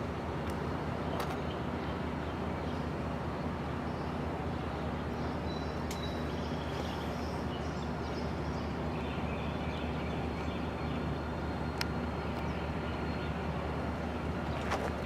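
Steady low hum of an idling engine, with a few sharp clicks.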